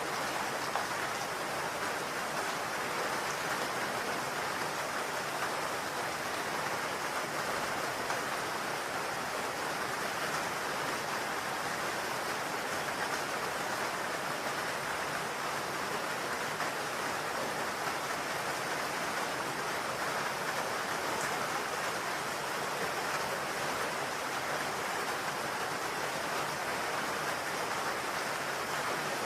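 Steady rain on a roof: a constant, even hiss of many drops that holds without breaks or changes.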